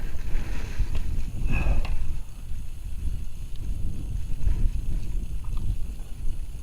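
Wind buffeting the microphone: an uneven low rumble that rises and falls, with a few faint small clicks and a short high chirp about a second and a half in.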